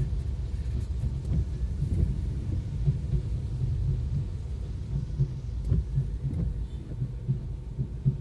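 Low, steady rumble of a vehicle driving through heavy rain, with scattered irregular knocks throughout.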